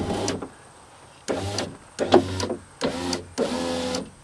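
1995 Ford F-150 power window motor and regulator, with the door panel off, run in several short bursts, each a brief whine starting with a click. The clicking is taken as a sign of a fault in the window motor itself.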